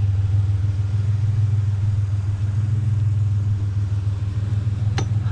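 Truck engine idling steadily with an even low hum, and a single sharp click near the end.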